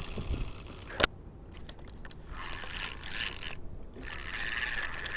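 A single sharp knock about a second in, then intermittent scraping on the kayak.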